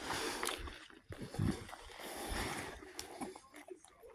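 A person chewing food close to the microphone: moist mouth noises with a few faint clicks.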